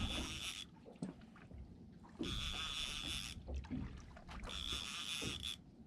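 A fishing reel being wound in with a fish on the line, in three bursts of about a second each with short pauses between, as the rod is pumped and the line wound down.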